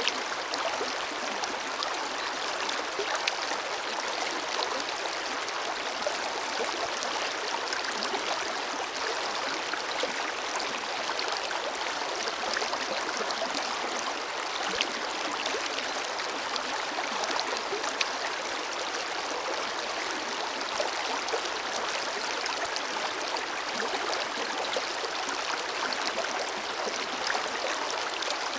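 Forest river flowing steadily, a continuous rush of water with fine splashes and gurgles.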